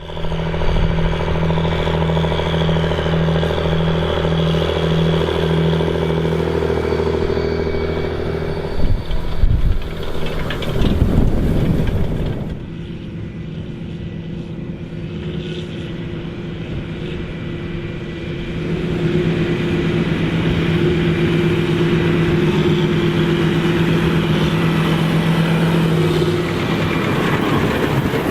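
Large farm tractor's diesel engine running steadily under load in the field, with a slow regular throb in its note for the first several seconds. About nine seconds in come a few seconds of louder, uneven noise; then the sound drops in level and builds back to a steady engine drone from about nineteen seconds.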